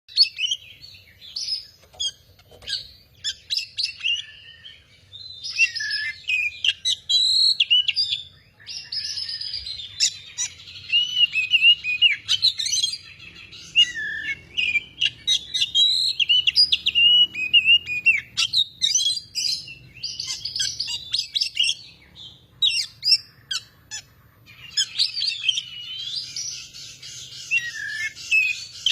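Oriental magpie-robin (kacer) singing energetically and almost without pause: a fast, varied run of whistled phrases, chirps and sharp clicking notes, broken by short pauses.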